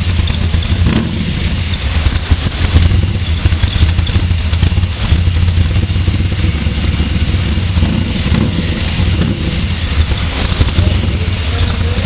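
Z28 Camaro's freshly built 383 V8 running steadily at idle through its dual exhaust, a deep even rumble with no revving.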